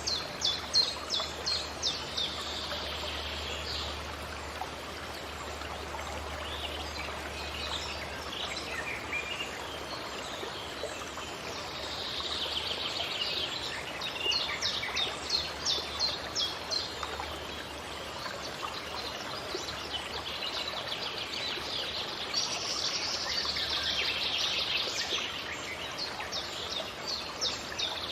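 Forest birds singing over a steady rush of running water. One bird repeats a phrase of fast, sharp high notes, about four a second, three times, with softer chirping in between.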